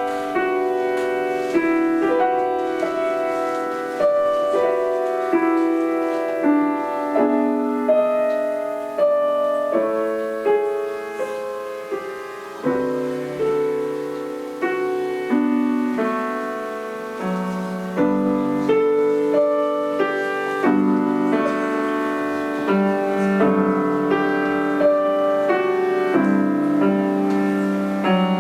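Solo acoustic piano playing a classical-style piece, with a melody of clear struck notes that ring and decay over a moving accompaniment.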